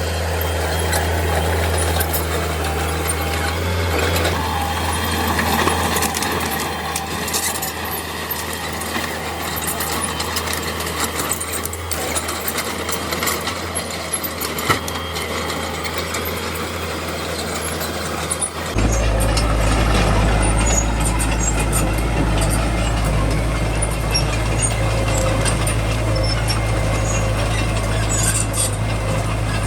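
Small bulldozer's diesel engine running steadily under load, with scattered cracks and knocks from the machine at work. About two-thirds through, the engine's low note changes abruptly and becomes louder.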